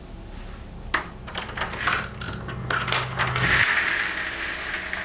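A run of sharp clicks and light metallic clattering, like small hard objects being handled, while a low hum stops about two-thirds of the way in. A steady hiss follows.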